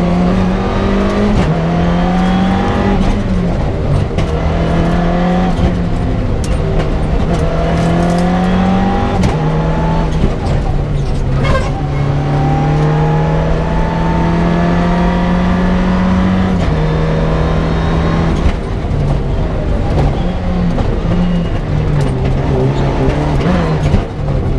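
Mitsubishi Lancer Evo 6's turbocharged four-cylinder engine at full rally pace, heard from inside the stripped cabin: the revs climb and drop back at each upshift every couple of seconds, with one long pull in a single gear about halfway through. In the last few seconds the revs go choppy, with lifts and downshifts.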